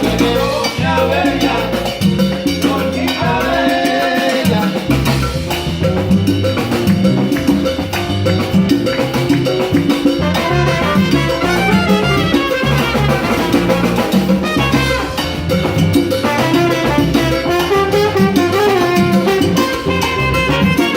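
Live salsa band playing a steady salsa groove, with drums and percussion driving the rhythm under melodic instrument lines.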